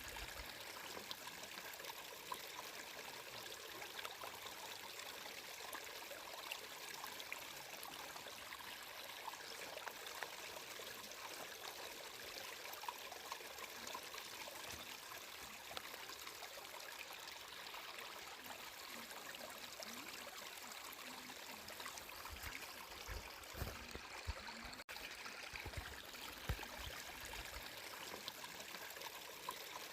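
Small stream of water flowing and trickling steadily, with fine splashing ticks in the rush. A few brief low rumbles come about three-quarters of the way through.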